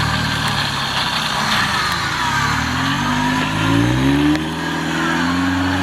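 Off-road 4x4 competition vehicle's engine running at low revs, then revving up about halfway through and holding at higher revs.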